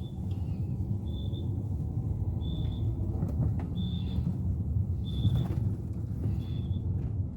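Suzuki Ertiga's 1.4-litre four-cylinder engine idling, a steady low rumble. Over it, a short high electronic beep repeats about every 1.3 seconds.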